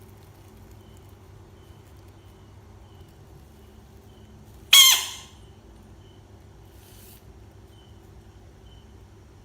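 A bullfrog gives one short, loud squeal about five seconds in, falling in pitch and lasting about half a second, over a steady low hum.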